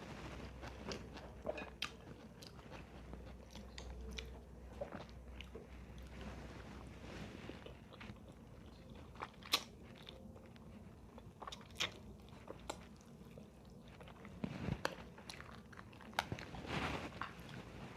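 A person chewing and crunching food, with scattered sharp clicks. The chewing grows denser about fifteen seconds in.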